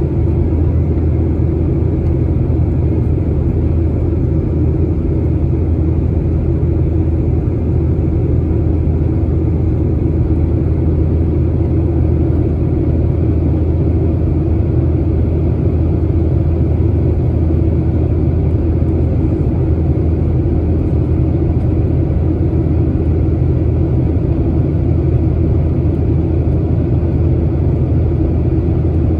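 Steady, even rumble of a Boeing 737-800's cabin noise, its CFM56-7B jet engines and airflow, with no change in pitch or level.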